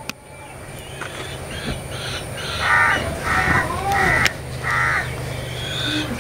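A bird calling outdoors: four calls in quick succession, less than a second apart, in the middle of the stretch, over a steady low hum.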